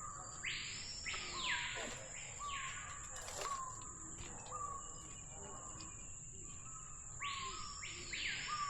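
Rainforest birds calling. One repeats a short falling note about every 0.7 s, and loud sweeping calls that rise and then fall come about half a second in and again near the end.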